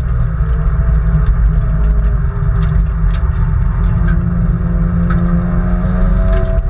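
Nissan Skyline R33 GT-R's twin-turbo straight-six heard from inside the cabin under track driving. Its note shifts up and down in pitch with the revs over heavy low-pitched road and cabin noise.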